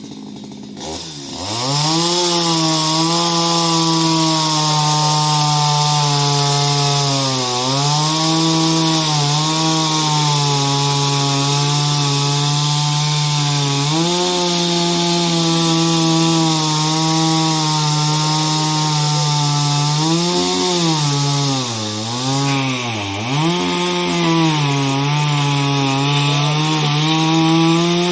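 Two-stroke chainsaw revving up and cutting through tree wood at full throttle, its engine note dipping briefly a few times as the chain loads in the cut, then winding down at the end.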